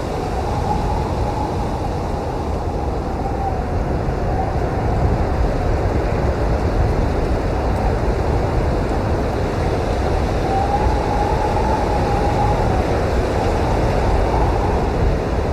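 Blizzard wind blowing hard and steadily with a low rumble, and a faint howling whistle that rises and falls, most clearly about ten seconds in.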